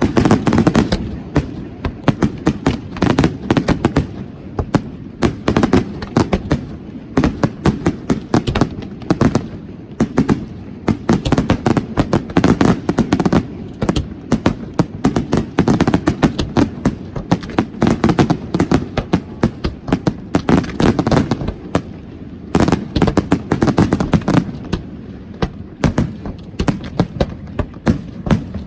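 Fireworks display going off in a dense, continuous barrage: rapid sharp bangs and crackles, many per second, over a low rumble, without a pause.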